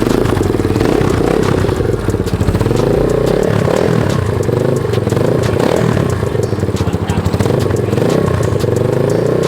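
Kawasaki dirt bike engine idling while it warms up, its speed wavering a little.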